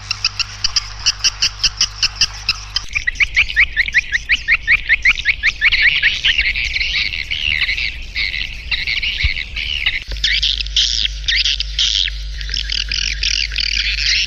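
Swiftlet calls from a recorded lure sound: rapid, repeated twittering chirps. The pattern shifts about three seconds in to a quick run of rising chirps, then again near ten seconds, over a steady low hum.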